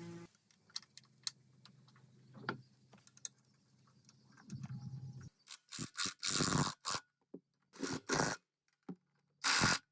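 Scattered clicks over a faint low hum, then a run of short, loud scraping or hissing bursts, each under a second, in the second half.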